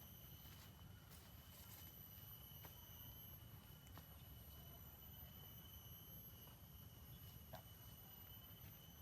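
Near silence: a faint low rumble with a thin steady high-pitched tone, and a few faint ticks.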